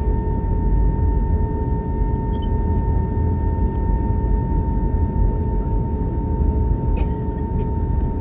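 Steady drone inside a jet airliner's cabin while taxiing after landing: a dense low rumble from the engines and air system, with a steady whine held over it.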